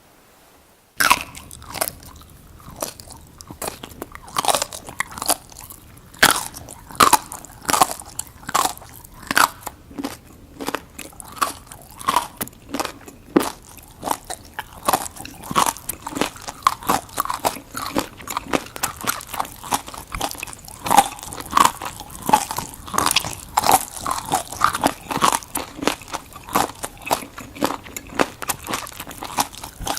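Crunchy seaweed being bitten and chewed close to the microphone: a dense run of crisp crunches that starts about a second in.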